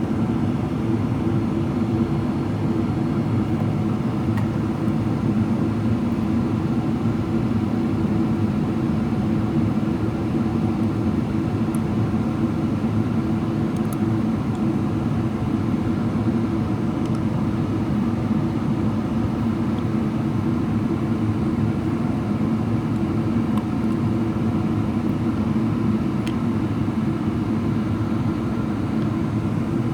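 Steady cabin noise of a Boeing 777-300ER in descent, heard from inside the passenger cabin: a constant rush of airflow with the low hum of its GE90 engines, unchanging throughout.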